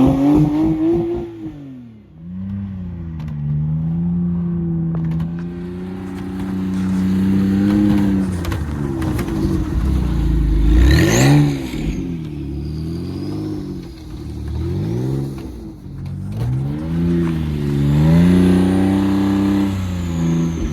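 Porsche 911 Carrera T's twin-turbo flat-six revving up and down again and again, its pitch rising and falling in waves, with a brief heavier surge about halfway through.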